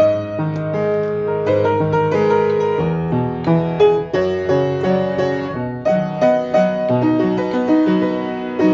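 Piano playing a melody over held bass notes, each note struck and left to ring.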